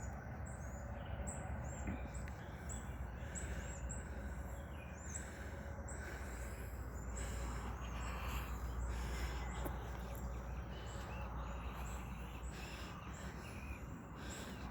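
Birds singing: many short, high chirps repeating throughout, over a steady low rumble.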